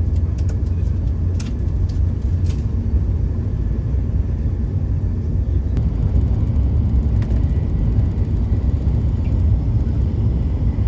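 Hokuriku Shinkansen running at speed, heard inside the Gran Class cabin as a steady low rumble. A few light clicks come near the start.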